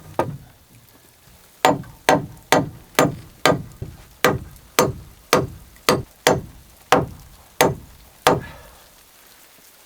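A hand tool striking wood: one blow at the start, then, after a pause of about a second and a half, about a dozen sharp, evenly spaced blows at roughly two a second, stopping about a second and a half before the end.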